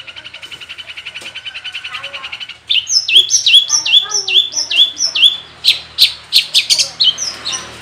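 Long-tailed shrike (cendet) singing a song full of mimicked phrases. A fast, even trill of high notes gives way about two and a half seconds in to louder repeated down-swept notes, about three a second, then sharp short chips.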